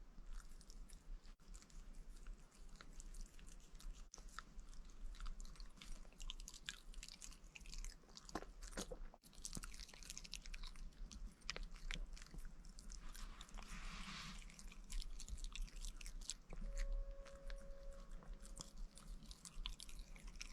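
A pet chewing and crunching food in small, irregular bites, faint.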